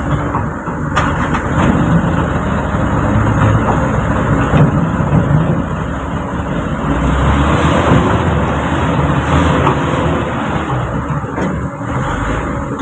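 Truck engine running with a steady heavy rumble.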